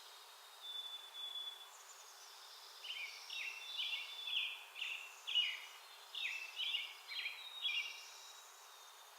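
Small backyard songbirds calling at a feeder: a thin, steady high whistle about a second in, then a run of short, quick chirping notes from about three seconds in to near the end.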